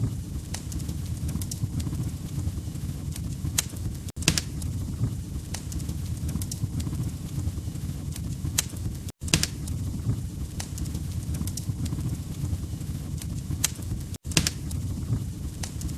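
Wood fire crackling: a steady low rumble with scattered sharp pops and snaps. It cuts out very briefly three times, about five seconds apart, as the looped recording repeats.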